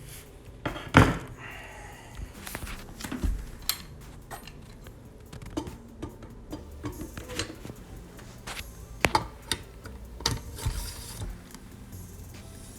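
Irregular knocks and clatters of engineered wood flooring boards and tools being handled and set down. The loudest knock comes about a second in, and a few more come around nine to ten seconds. No saw is running.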